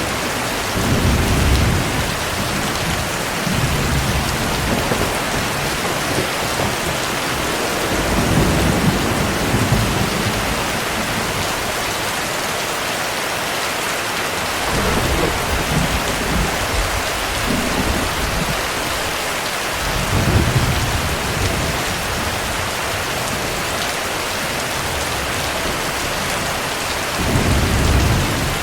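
Steady heavy rain with low thunder rumbling in and out every few seconds. The rumbles swell loudest about 20 seconds in and again near the end.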